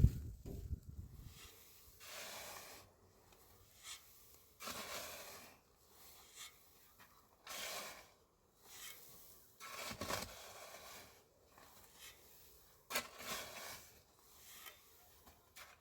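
A hand tool scraping in slow, separate strokes, about five of them, a couple of seconds apart.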